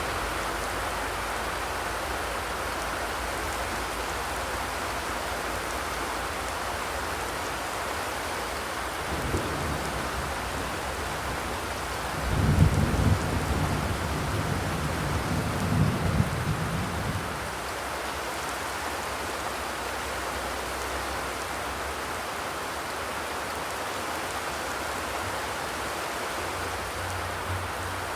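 Steady rain drumming on a zinc roof. About twelve seconds in, a low rumble swells for around five seconds, then fades.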